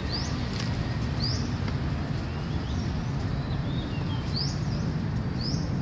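A bird repeating a short, high, rising chirp every second or so, over a steady low rumble.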